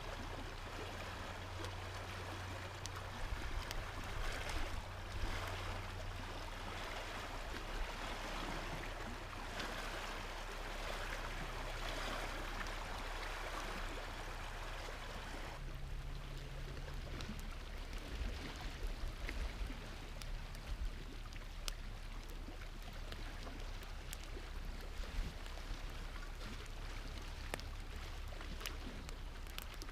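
A steady rush like flowing or lapping water, with scattered sharp crackles from a campfire that come more often in the second half.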